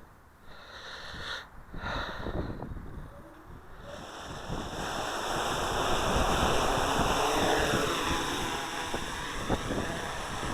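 SK450 quadcopter's electric motors and propellers spinning up about four seconds in and then running with a steady high whine that shifts in pitch later on, under wind buffeting the microphone.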